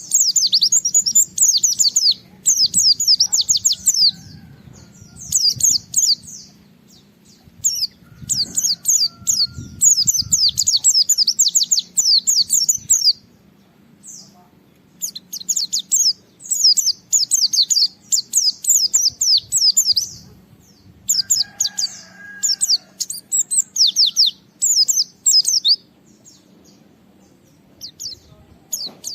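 White-eye (pleci) singing vigorously: rapid, high chattering twitters in bursts of one to three seconds, separated by short pauses.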